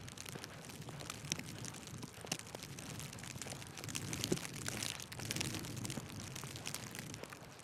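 Outdoor street ambience: light, irregular crackling and ticking over a low rumble that grows louder from about four seconds in and eases off again.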